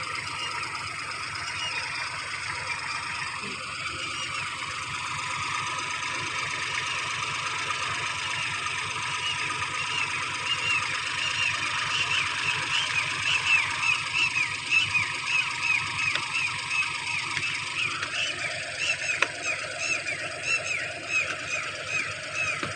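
A heavy machine's engine running steadily. From about ten seconds in it is joined by a quick run of short, high squeaks, roughly two or three a second.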